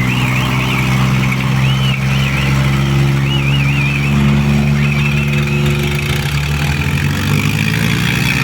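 Diesel tractor engines running hard and steady under load as two tractors pull against each other in a tug-of-war, the engine note shifting slightly about four seconds in. High warbling whistle-like tones sound over it several times in the first half.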